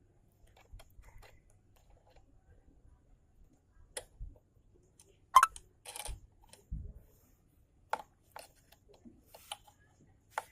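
Scattered clicks and knocks of hand work on a motorcycle's front brake cable, with a few dull thuds and one sharper knock about halfway through.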